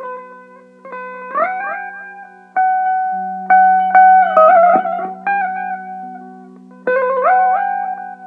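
Electric mandolin playing a slow melody. Its plucked notes ring out and fade, and several slide up in pitch, over a steady low drone.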